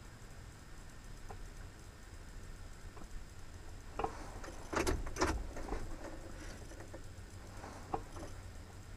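A few sharp knocks and rattles, clustered about halfway through with one more near the end, over a faint steady low rumble.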